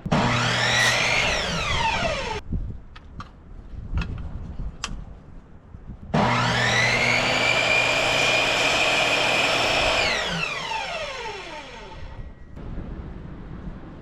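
Electric power tool motor switched on twice. A short run at the start winds down over about two seconds, a few clicks follow, then a longer steady run from about six seconds in holds for around four seconds before spinning down with a falling whine.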